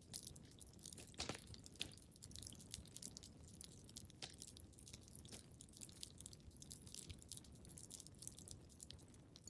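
Wood fire crackling faintly in a fireplace: a steady scatter of small crackles with a couple of louder pops between one and two seconds in.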